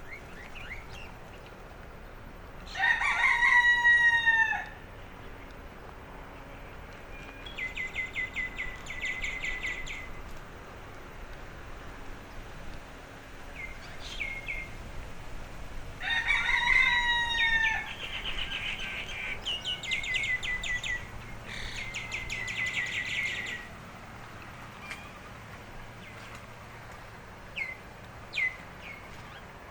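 A rooster crowing twice, the two long arching crows about 13 seconds apart and the loudest sounds. Between and after them, small birds give fast rattling trills and a few short chirps.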